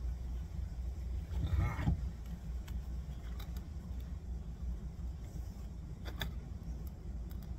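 Small workbench handling sounds as thin metal shim stock and tools are moved: one short scrape about one and a half seconds in, then a few light clicks and taps, over a steady low hum.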